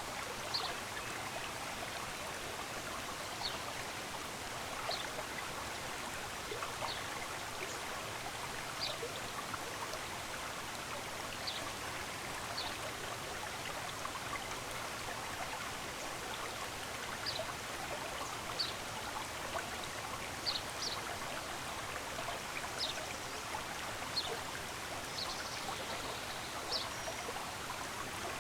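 Steady rush of a running stream, with short high blips every second or two over it.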